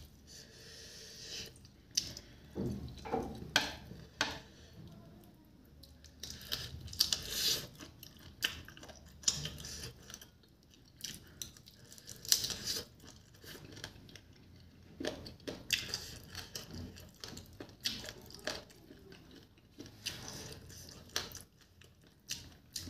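Close-up eating sounds: chewing and biting chicken feet with rice, in irregular short bursts, with fingers mixing rice on a plate.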